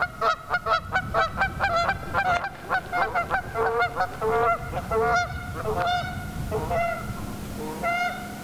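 A bird calling over and over in short, loud, pitched calls, about five a second at first, then slower and more spaced out.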